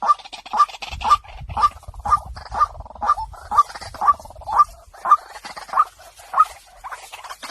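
White-breasted waterhen calling: a steady, rhythmic series of short notes, about two a second.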